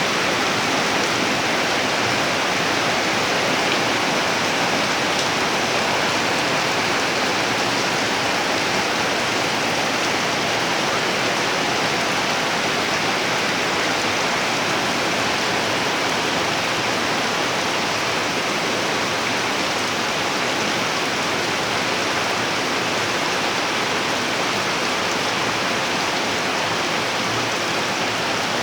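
Heavy rain falling steadily, an even hiss and patter with no let-up.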